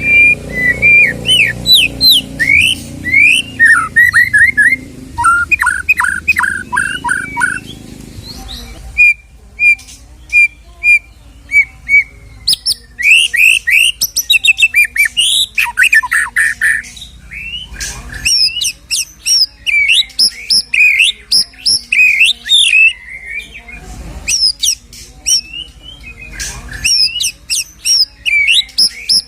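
White-rumped shama (murai batu) singing a long, varied song of quick whistles, trills and rapid runs of repeated notes, in phrases broken by short pauses. A low background rumble underlies the first several seconds.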